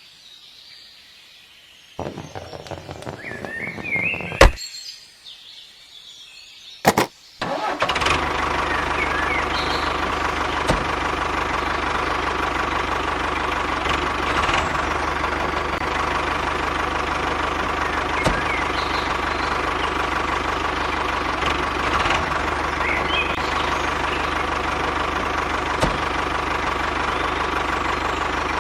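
Small engine of a home-built mini tractor, with a few knocks and clicks, then catching about seven seconds in and running steadily.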